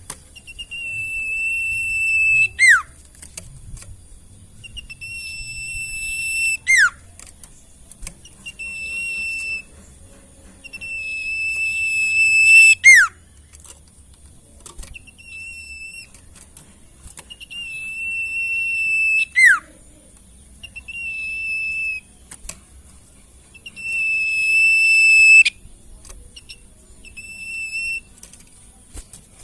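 A sirtu songbird singing a masteran song: runs of clear, steady whistled notes that grow louder, each run ending in a sharp whistle sweeping quickly down in pitch, five times over.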